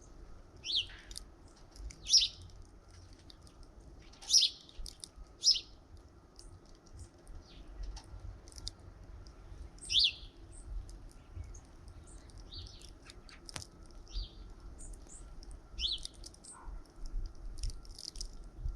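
Small songbirds chirping at a bird feeder: scattered short, high chirps from several birds, a few of them louder, over a faint low rumble.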